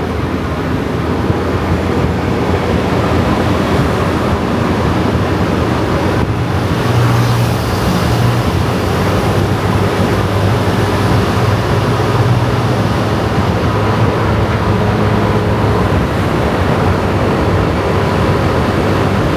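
Kawasaki ZX-4RR inline-four motorcycle engine running steadily under way, with road and traffic noise around it. The engine note dips briefly about six seconds in, then comes back stronger.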